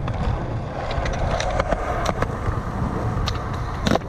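Skateboard wheels rolling on concrete, with several sharp clacks of the board and a louder clack near the end, over heavy wind buffeting the microphone.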